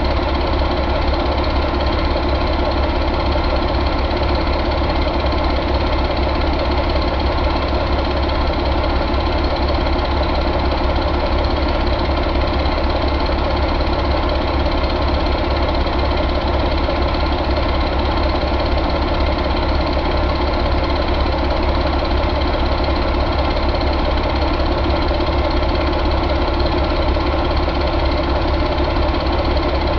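A 2020 Paccar MX13 inline-six diesel engine idling steadily, at an even speed throughout.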